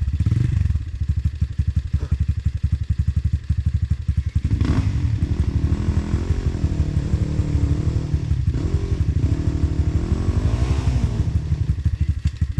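Two-stroke trail motorcycle engine idling with a rapid, steady firing beat, its pitch wavering for a few seconds in the middle as the throttle is touched. A single knock about four and a half seconds in.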